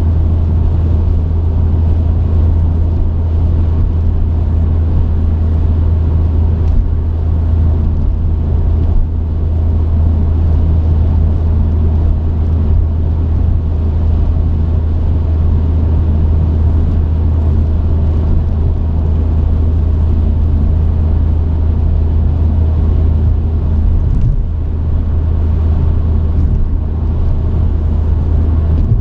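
Truck engine and road noise heard inside the cab: a steady low rumble and drone while driving, easing briefly once near the end.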